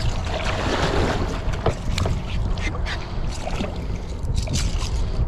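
Strong wind buffeting the microphone in a steady low rumble, with short sharp slaps and splashes of choppy water against a kayak.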